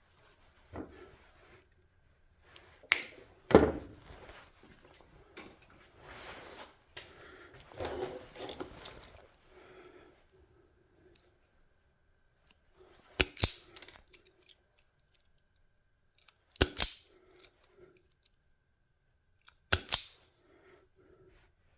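Hand tools snipping and crimping electrical wire for crimp connectors: four sharp, widely spaced snaps, with softer rustling of wire and tools being handled between them.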